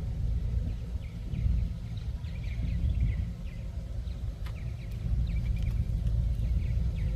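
Wind buffeting the microphone, heard as an uneven low rumble. Birds chirp short high notes in the background throughout.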